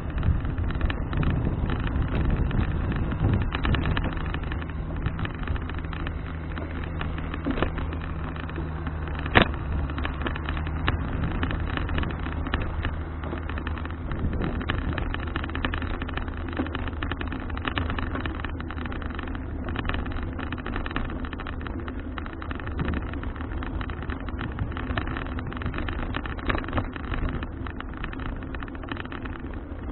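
A motor engine running steadily, its low hum fading out about halfway through, over a continuous rushing noise, with one sharp click a third of the way in.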